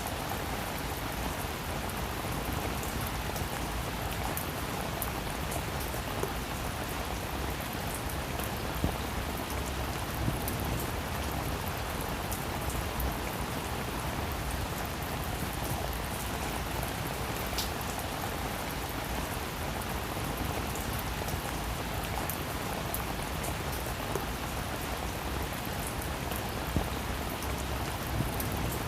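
Steady rain falling on a roof, an even hiss with a few louder single drops ticking now and then.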